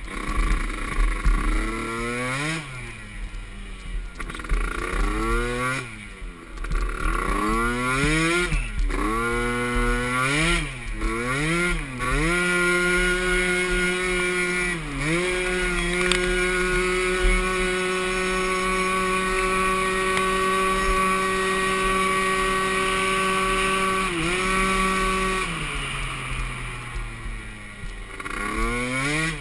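Small youth ATV engine revving up and down several times in quick succession, then held at steady high revs for about ten seconds with a couple of brief dips. Near the end it drops off and builds again.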